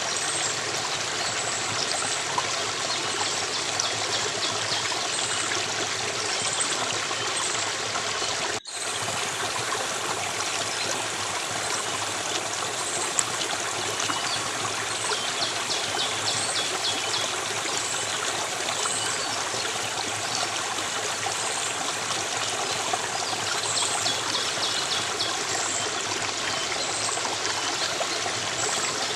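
Running stream water, a steady rushing trickle, with faint high chirps recurring over it. The sound cuts out for an instant about nine seconds in.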